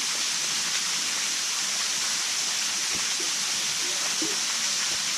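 Steady rushing of water, even and unbroken, with faint voices in the background.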